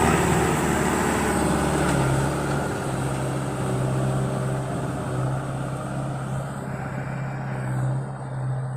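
Kubota farm tractor's diesel engine running steadily with a low, even hum.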